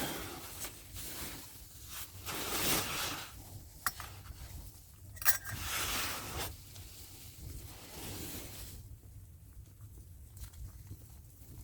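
Wind gusts rushing over and buffeting a tarp shelter in swells of a second or two. Two sharp clicks come a little before four and a little after five seconds in.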